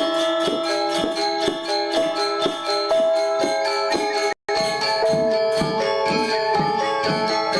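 Balinese gamelan gong ensemble playing classical lelambatan: bronze metallophones and gong-chimes ringing in steady, even strokes about four a second. The sound cuts out for a split second a little past halfway.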